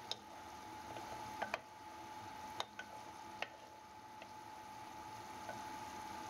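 Grated onion, garlic and ginger sizzling in oil in a frying pan, with a handful of sharp, irregular pops or clicks during the first four seconds. A faint steady high tone runs underneath.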